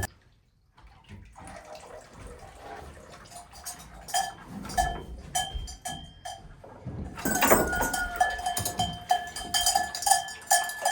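A metal vessel clinking again and again, each stroke leaving a ringing tone; the strokes come quicker and louder from about seven seconds in.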